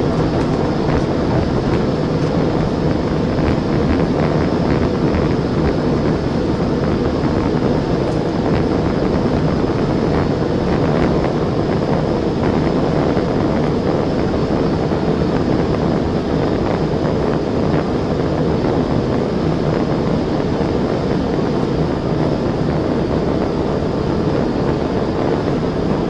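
Steady road and wind noise of a police patrol car driving at high speed, about 112 mph, with the engine running underneath, heard from inside the cabin.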